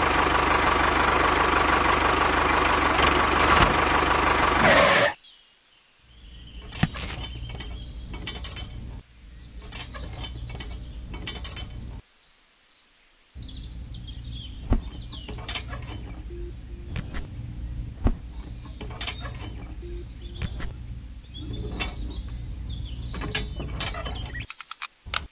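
Small sharp clicks and taps of plastic and metal parts as a miniature disc harrow is fitted by hand to a model tractor's spring-loaded hitch, over a low steady hum. The first five seconds hold a louder, dense steady sound that cuts off abruptly.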